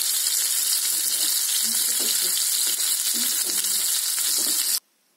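Breaded meat cutlets frying uncovered in oil in a pan over low heat, a steady sizzle that cuts off suddenly near the end.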